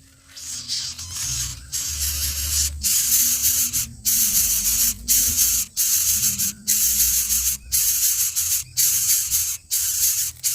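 Loud hissing noise that starts abruptly and comes in long stretches broken by short gaps about once a second.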